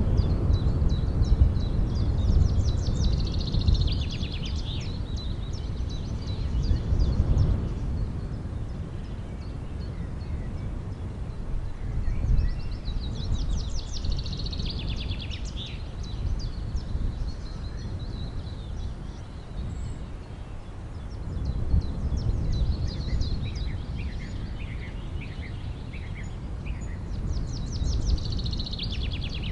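Birds chirping in quick trilled series that come back every several seconds, over a steady low rumble.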